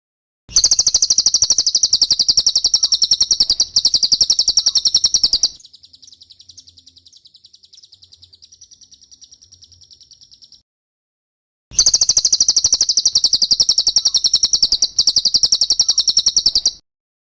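Cililin song used as a masteran: a loud, very fast, high-pitched trill of rapidly repeated notes lasting about five seconds, then a much softer trill, a short pause, and a second long loud trill.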